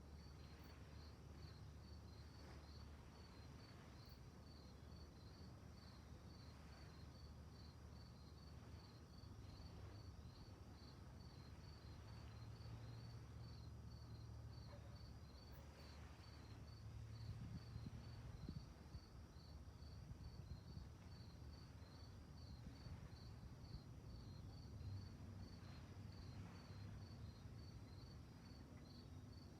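Crickets chirping faintly and steadily, a regular pulse of about two to three chirps a second, over a low steady rumble.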